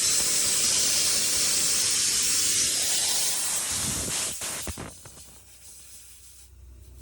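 Compressed air hissing out steadily from the truck's air compressor system, then cut off about four and a half seconds in with a few clicks.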